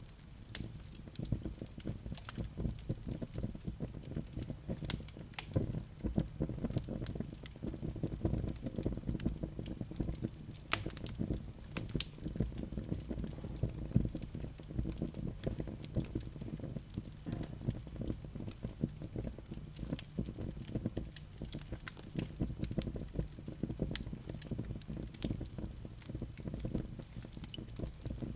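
Wood fire burning in a fireplace: a low steady rumble of flames with frequent irregular crackles and pops from the burning logs.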